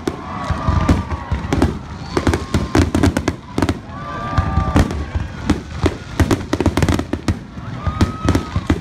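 Fireworks display: a dense, irregular run of bangs and crackling from bursting aerial shells, continuing without a break.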